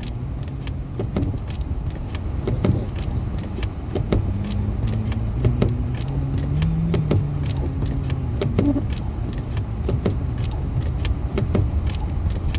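A pickup truck driving on snowy streets, heard from inside the cabin: a steady low engine and road rumble whose engine tone rises and falls a little, with many scattered sharp clicks and knocks throughout.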